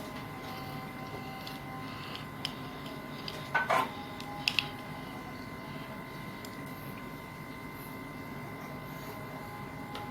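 Steady background hum with a faint high-pitched whine, broken by a few short sharp clicks and taps, the loudest a little past three and a half seconds in.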